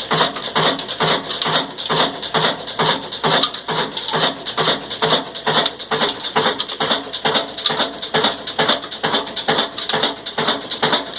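Old Ruston Hornsby-type desi diesel engine running steadily under load driving a chakki flour mill, its exhaust beating evenly about three to four times a second over the hiss and grind of the mill.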